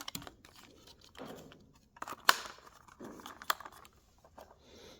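Small new brake-kit parts being handled and unwrapped from plastic packaging: soft crinkling and rustling with a few sharp clicks, the loudest a little over two seconds in.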